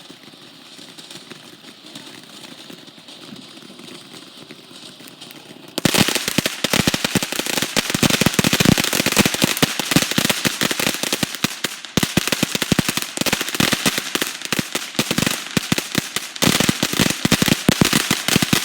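Quiet outdoor background, then about six seconds in a string of firecrackers goes off: a long, rapid, unbroken run of sharp pops that briefly thins twice before going on.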